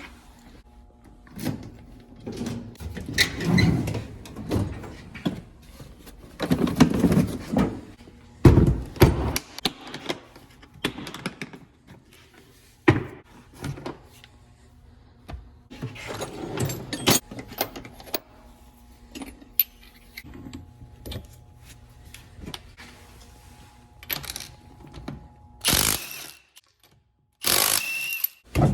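Irregular clanks, thuds and rattles of hand tools and car parts being handled during work on a car, some short and some drawn out, over a faint steady hum.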